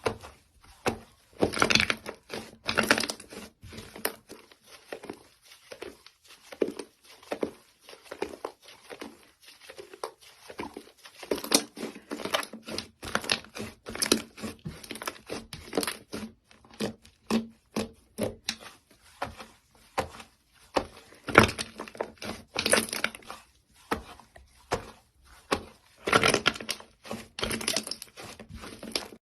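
Slime being worked by hand: an irregular run of short crackling pops and squishes, several a second, coming in clusters.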